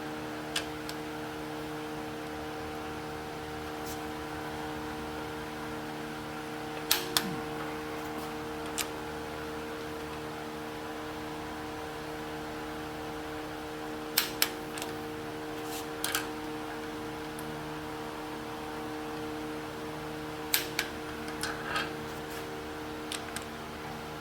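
Click-type torque wrench tightening cylinder head bolts: short sharp clicks, several in quick pairs, every few seconds as each bolt reaches its torque setting. A steady hum runs underneath.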